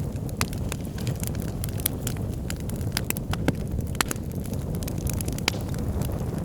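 Wood fire of burning logs in a fireplace: a steady low rumble of flames with frequent sharp, irregular crackles and pops.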